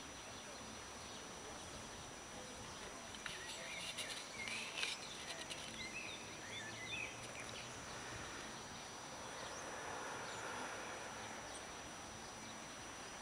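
Open-air background noise with small birds chirping, a burst of short chirps and a few clicks between about three and seven seconds in.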